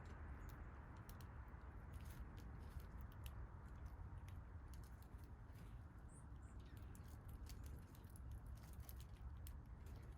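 Faint, scattered pecking ticks of small backyard birds feeding, with one brief high bird chirp about six seconds in, over a low outdoor rumble.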